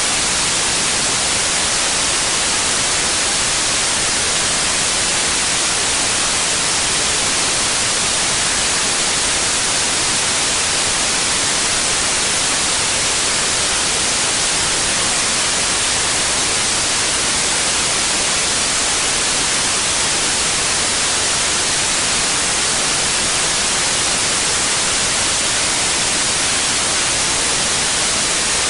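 Synthetic white noise: a steady, even hiss that never changes, strongest in the high frequencies.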